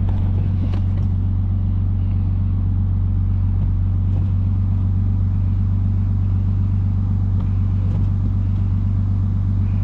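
Lexus IS250's 2.5-litre V6 running at a steady, unchanging engine speed while driving, a constant low drone with no revving.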